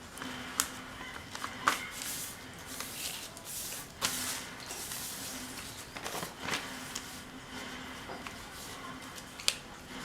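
A sheet of paper being handled and folded: rustling with several sharp crinkles and creases.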